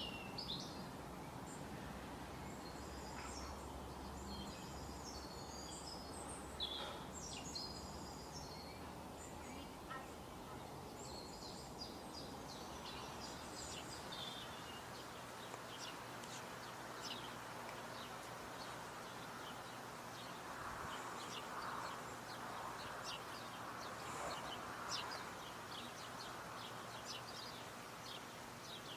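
Birds chirping and calling with short high notes over a steady outdoor background hiss. Varied chirp phrases fill the first half, and quick short ticks follow.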